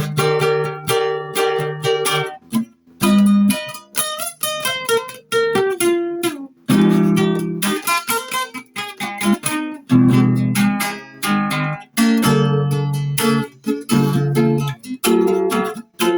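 Solo guitar improvisation: plucked single notes and chords that ring and die away, played in phrases with short pauses between them.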